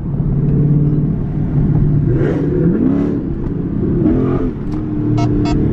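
Dodge Charger Scat Pack's 392 HEMI V8 running on the road, its revs rising and falling a few times.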